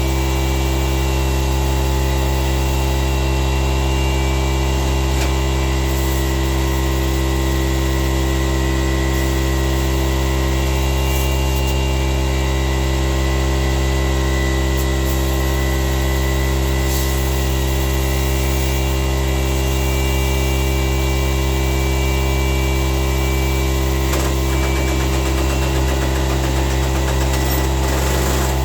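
A motor running steadily at one constant speed, a continuous hum made of several fixed low tones, with some light clatter near the end.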